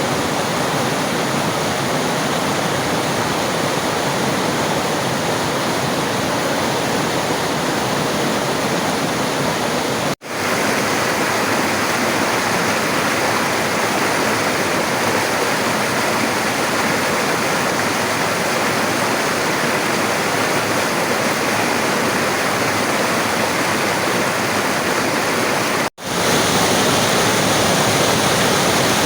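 Steady rushing of river water. The sound cuts out for a split second about ten seconds in and again near the end, each time fading straight back in.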